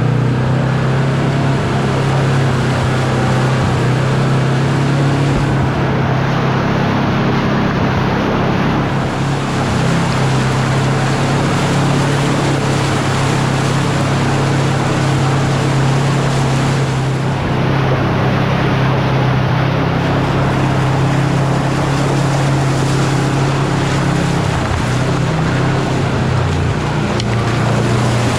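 Side-by-side UTV engine running steadily under way, its drone held at an even pitch under a constant rush of wind on the microphone.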